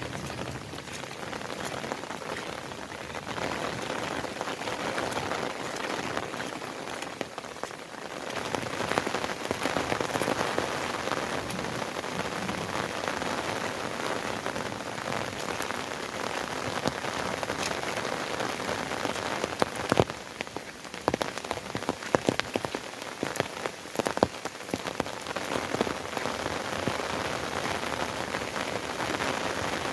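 Steady rain falling on surfaces, with many sharp individual drop hits through it, louder and thicker about two-thirds of the way through.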